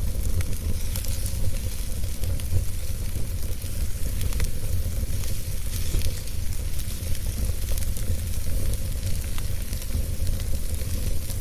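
Wood fire burning in a fireplace: a steady hiss with scattered sharp crackles and pops over a continuous low rumble.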